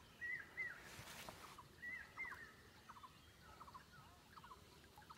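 Faint bird calls repeating: short arched chirps followed by quick clipped notes, several a second, with a brief splash of water about a second in.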